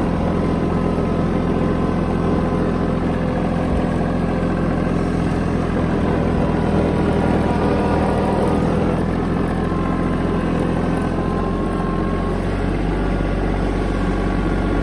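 Mahindra tractor's diesel engine running steadily at a low, even speed.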